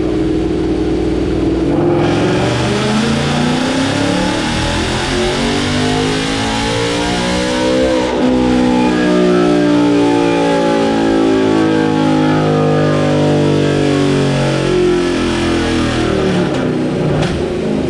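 Ford Mustang V8 with a Cobra Jet intake manifold making a full-throttle dyno pull. The engine note starts climbing about two seconds in and rises steadily to a peak around eight seconds in, then falls slowly as the engine and rollers wind back down.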